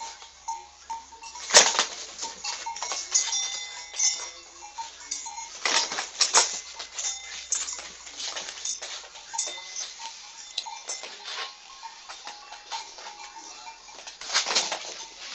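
A chicken and a goat scuffling: scattered knocks, scrapes and clatter, the loudest about a second and a half in, with short animal calls in between.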